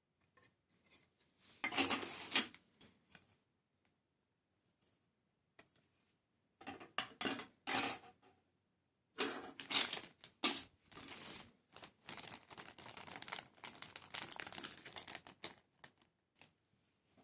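Packaging of a model kit being handled: wrapping rustling and crinkling in three bouts, the last and longest lasting about six seconds.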